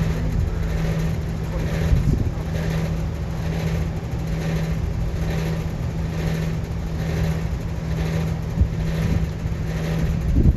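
Refrigerant recovery machine running with a steady motor hum and a faint, even pulsing, pulling the refrigerant out of a walk-in freezer's system before its failed compressor is replaced.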